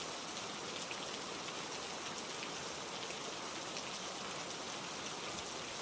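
Steady rainfall, drops pattering on a surface, with fine scattered ticks of individual drops.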